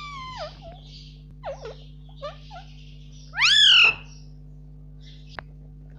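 Indian ringneck parrot calling in short gliding notes: a falling call at the start, a few brief chirps, then a loud call that rises and falls about three and a half seconds in.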